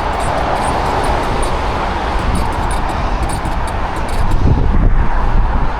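Rolling noise of a Ridstar Q20 fat-tyre e-bike on the move, with wind rumbling on the microphone; it grows louder about four seconds in.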